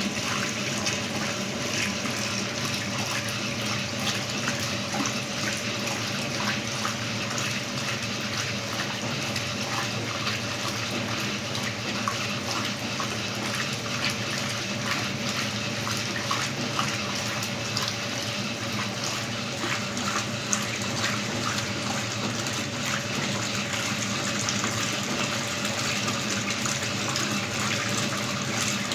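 Electronic Brastemp washing machine taking in water: a steady rush of water filling the tub, with a faint steady hum underneath.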